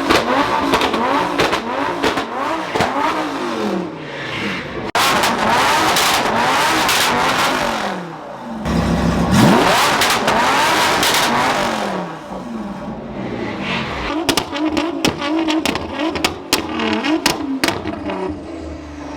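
A performance car engine revved hard over and over, its pitch climbing and dropping with each blip. In the last few seconds come a rapid string of sharp exhaust pops and crackles.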